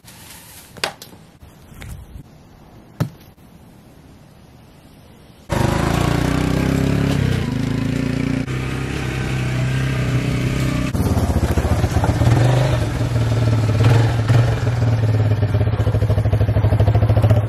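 A few faint knocks, then about five and a half seconds in the Apollo 250 dirt bike's engine comes in suddenly and runs steadily, its pitch stepping up a little about eleven seconds in.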